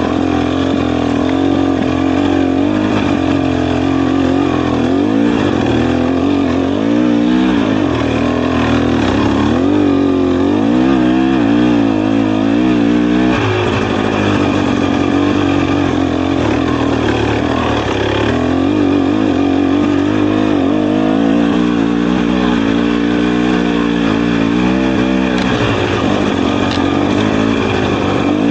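Dirt bike engine running under load on a trail ride, its revs rising and falling over and over as the rider works the throttle.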